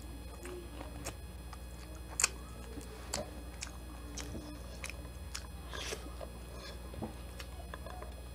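A person chewing garlic buttered shrimp and rice, with soft scattered clicks and crackles of shrimp shells being handled by hand. A sharper click comes about two seconds in.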